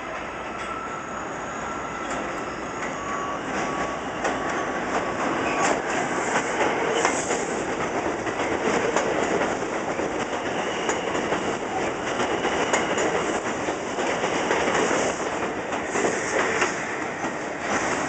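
Five-car New York City subway train running past, its wheels clattering rhythmically over the rail joints, with bouts of high wheel squeal. It grows louder over the first few seconds as it comes in.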